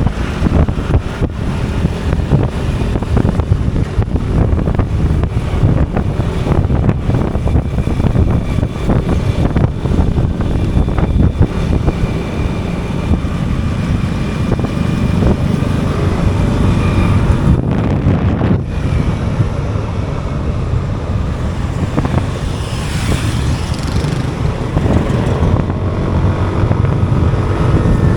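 Riding a motorcycle on a road: the bike's engine running under heavy wind rumble on the microphone, with road traffic around.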